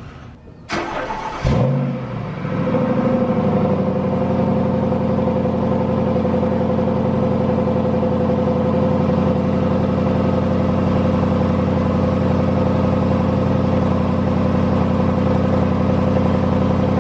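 2011 Jaguar XK's naturally aspirated 5.0-litre V8 starting: a short crank, then the engine catches with a loud rev flare about a second and a half in. The revs drop back and it settles into a steady idle.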